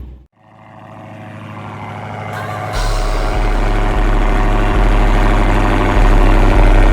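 Dodge Charger R/T's 5.7 Hemi V8 running through an aftermarket exhaust, with a steady burble. It drops out briefly at the start, then swells back in and gets louder in steps, with a deep rumble coming in about three seconds in.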